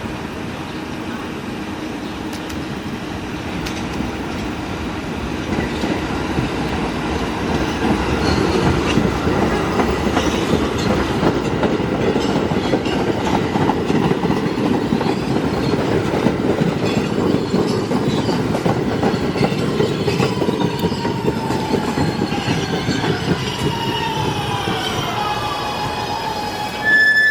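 Staten Island Railway electric train pulling into the station. The wheels rumble and clatter on the track, growing louder over the first several seconds. Near the end a falling whine sets in as the train brakes to a stop, and a brief high tone closes it out.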